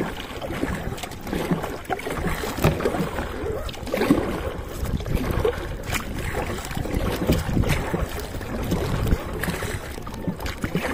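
Sea kayak being paddled: irregular paddle splashes and water sloshing against the hull, with wind buffeting the microphone.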